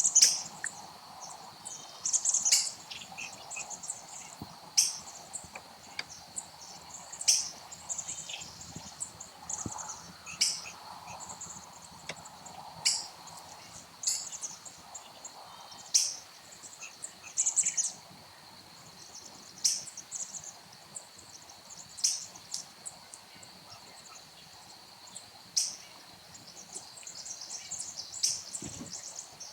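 A bird giving short, sharp high chirps, one every two to three seconds, over a steady high insect drone.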